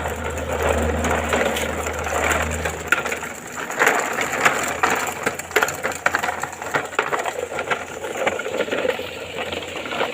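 Toy truck being pushed along, its plastic parts and wheels clattering and rattling in rapid irregular clicks. A low hum runs under it for about the first three seconds.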